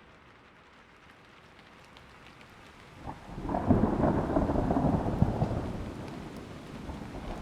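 Steady rain falling, with a roll of thunder building about three seconds in. The thunder is loudest for a couple of seconds, then eases off and swells again near the end.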